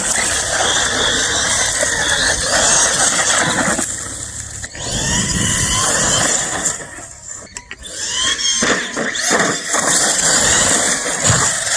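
Electric 1/7-scale CEN Reeper RC monster truck driving, its motor whining and squealing under throttle. The sound drops away briefly about four seconds in and again around seven to eight seconds, then comes back up.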